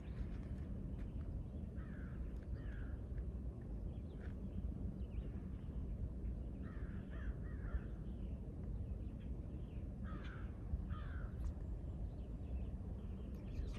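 A bird giving harsh, raspy calls, short and repeated in groups of two or three, over a steady low background rumble.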